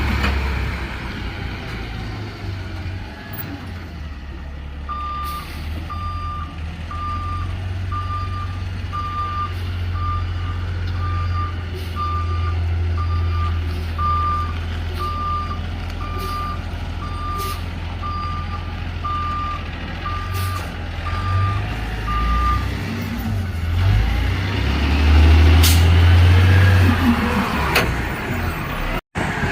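Garbage truck's engine running with its reversing alarm beeping about once a second, the beeps stopping about three-quarters of the way through; the engine then revs up near the end.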